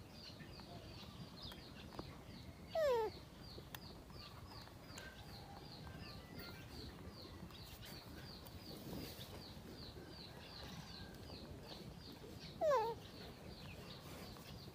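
Birds calling: a rapid run of high chirps, about three to four a second, goes on throughout. Twice, about three seconds in and near the end, a louder short call slides down in pitch.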